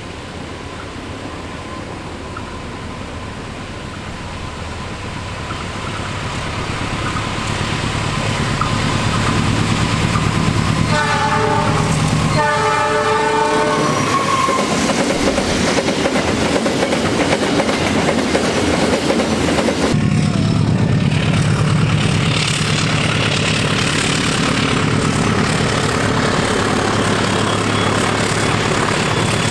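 Diesel locomotive hauling a cement freight train approaches and grows louder, sounds its horn twice about midway (a short blast, then a longer one), then passes close with its engine running and the wagons' wheels clattering over the rails.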